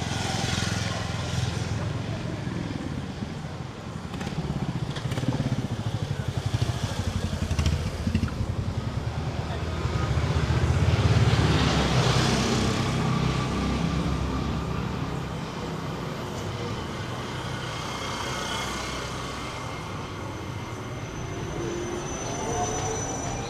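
Street traffic with motor vehicles passing, the loudest going by about halfway through.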